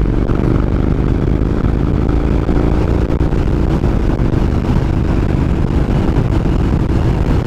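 Honda NC700X motorcycle's parallel-twin engine running at a steady, unchanging pitch while riding, with wind and road noise.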